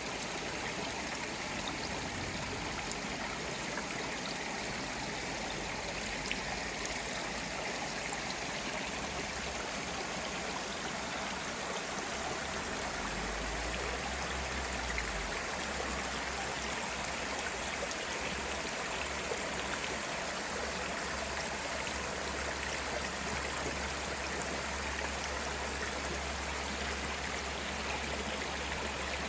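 Valley stream flowing in a steady, even rush of water.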